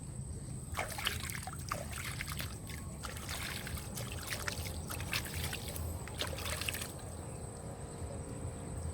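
Water splashing and trickling in irregular bursts, as water is stirred or poured by hand. The bursts stop about seven seconds in.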